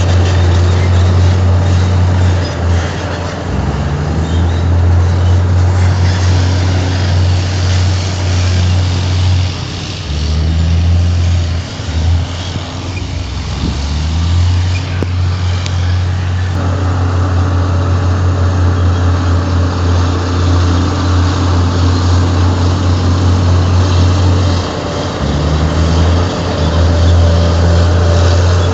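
Heavy diesel engine of a Komatsu crawler bulldozer working under load. It runs loudly, its note dropping and picking up again several times as the load changes.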